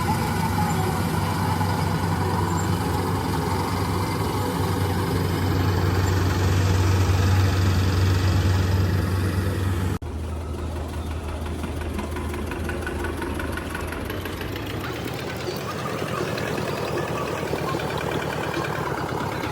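Tractor engine running steadily. An abrupt cut about ten seconds in leaves the engine sound continuing slightly quieter.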